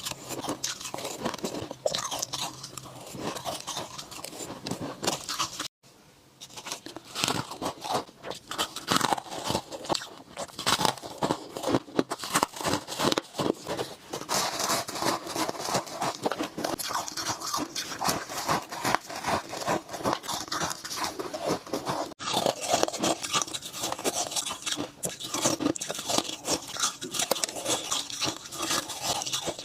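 Ice being bitten and chewed, a dense run of irregular crunches, sped up to double speed. There is a brief break about six seconds in.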